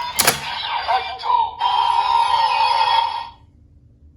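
CSM Decadriver ver.2 toy belt playing its electronic sound effects and processed announcement voice through its speaker, after a sharp click near the start. The audio cuts off about three seconds in.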